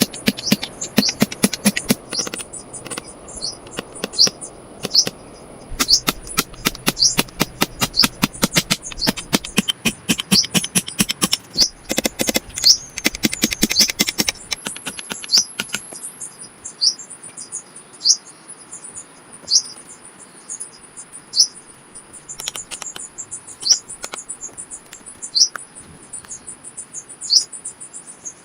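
A small bird chirping single short notes about once every second or two, over a steady thin high whine. Through the first half a quick run of sharp clicks and knocks sounds alongside, then stops about halfway through.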